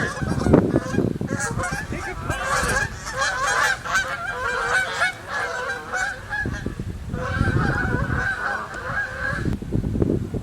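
Many birds calling at once, overlapping calls that break off briefly about seven seconds in and stop shortly before the end.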